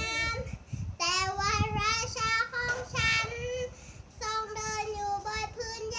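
A child's high voice singing long held notes, several phrases with short breaks between them.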